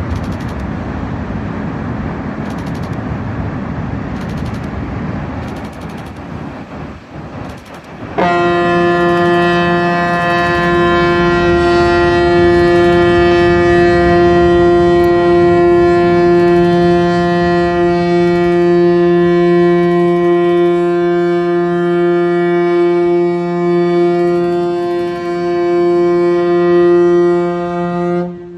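Ship's horn of the new ferry Keyaki sounding one long departure blast: a steady, loud, deep chord with many overtones that starts suddenly about eight seconds in, holds for about twenty seconds and cuts off near the end. Before it there is a steady low rush.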